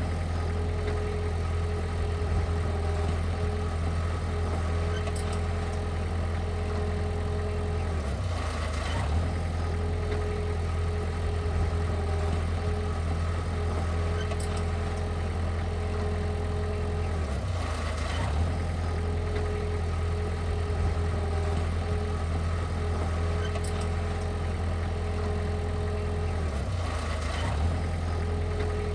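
Heavy-equipment diesel engine running steadily with a low drone, with a short change in the sound about every nine seconds.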